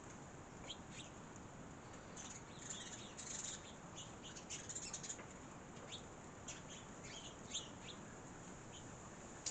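Small birds chirping in many short, quick, high notes, busiest from about two to five seconds in.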